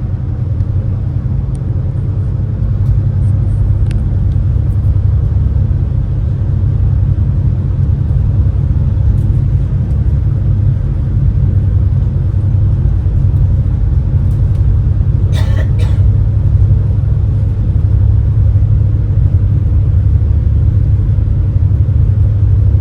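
Steady low rumble of the Super Jet Miyajima high-speed passenger boat's engines heard on board, getting a little louder a few seconds in. Two short knocks a little past the middle.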